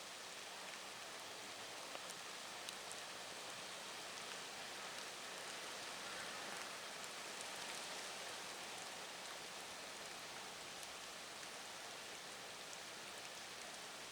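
Typhoon rain falling steadily: a constant hiss with a few sharp ticks of close drops, a little stronger about halfway through.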